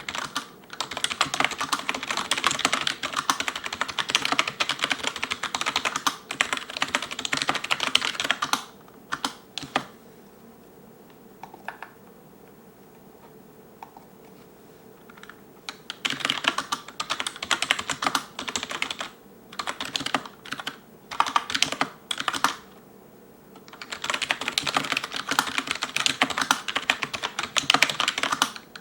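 Fast touch-typing on an ELECOM TK-FDM088TBK wireless membrane keyboard with cylindrical keycaps, a dense clatter of keystrokes. About eight seconds in the typing stops for several seconds, with only a few single key presses, then resumes in bursts and turns to a steady run again near the end.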